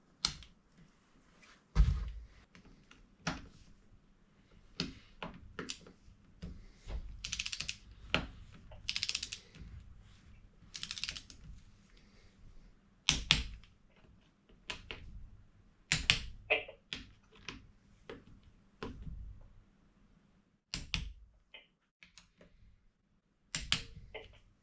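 Irregular metallic clicks and knocks of hand tools and bolts being worked on a motorcycle engine's top cover, with a few short scraping runs in the middle.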